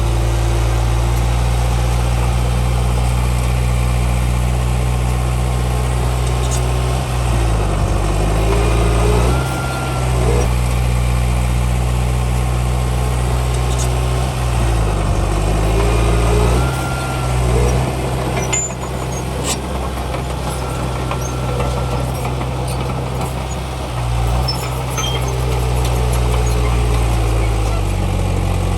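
Heavy diesel engines of earthmoving machines running steadily, the engine note dropping and climbing back twice as the load changes. Scattered sharp clicks and clanks come in the second half.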